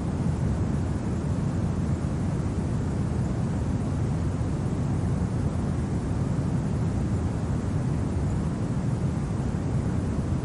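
Steady low rumble of winter wind, an even noise with no separate gusts or clicks.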